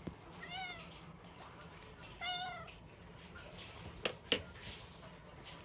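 Two short animal calls that rise and fall in pitch, the second longer than the first, followed a couple of seconds later by two sharp knocks in quick succession.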